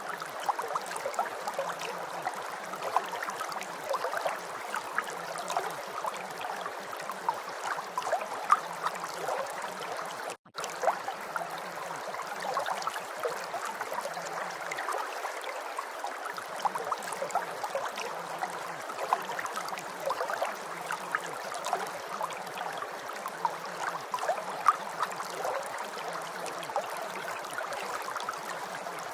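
Recorded rain: a steady hiss of many small drops pattering. The sound cuts out for a split second about ten seconds in.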